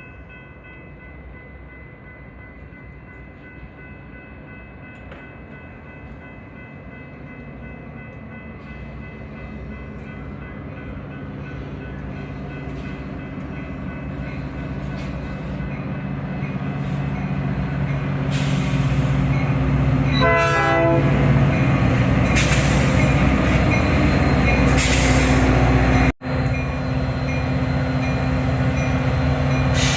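Metra commuter train on diesel power approaching and growing steadily louder, its locomotive horn sounding four times in the last third, in the pattern of a grade-crossing signal. The sound drops out for an instant near the end.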